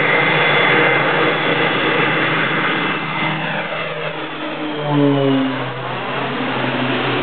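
Propeller airplane engine running at take-off power, getting louder as the plane passes close about five seconds in, with its pitch dropping as it goes by.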